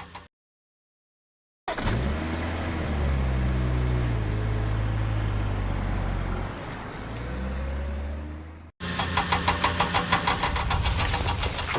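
Small engine heard in edited pieces. After a second and a half of dead silence it starts up and runs steadily, its pitch rising, dipping and rising again. About nine seconds in a hard cut brings a rhythmic chugging of about six strokes a second.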